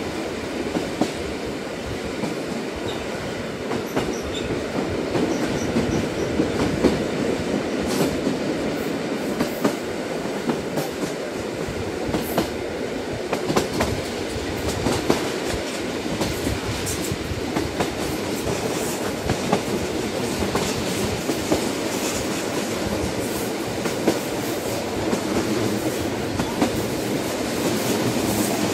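Train running along the track: a steady rumble with frequent sharp clicks scattered irregularly through it.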